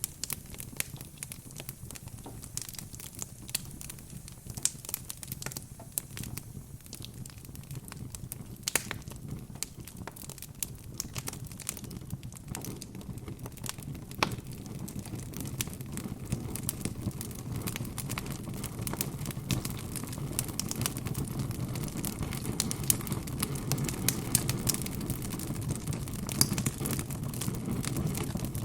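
Wood fire burning in a fireplace, crackling with many scattered sharp pops. A low rushing sound of the flames grows louder through the second half.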